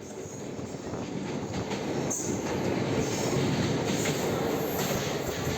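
Train in motion: steady wheel and carriage noise on the rails, fading in over the first two seconds and then holding level.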